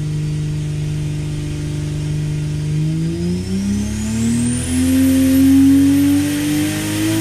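Turbocharged BMW B58 3.0-litre inline-six making a pull under load on an engine dyno. It holds a steady note for about three seconds, then climbs smoothly in pitch as the revs sweep up, with a high whistle rising alongside.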